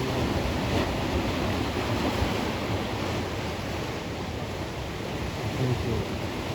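Sea waves washing onto the shore in a steady, unbroken wash of surf.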